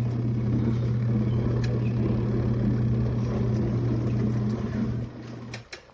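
Spin-dryer motor of a compact twin-tub portable washer humming loudly and steadily, then cutting off about five seconds in. The basket is not spinning, a fault the owner cannot explain.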